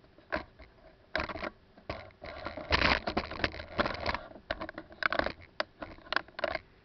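Handling noise: irregular scrapes, small knocks and rubbing right against the camera's microphone as the camera is moved and adjusted.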